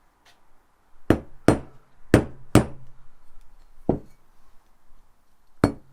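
Sharp metallic taps of a hammer on a tool, driving out the remains of a failed oil seal from a pressure washer's motor housing and working round the seal. About seven taps: two pairs in the first three seconds, a single one, then a quick pair near the end.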